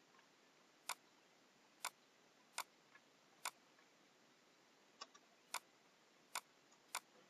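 Computer mouse clicking: single sharp clicks at uneven gaps of about half a second to a second, eight in all, over faint room hiss.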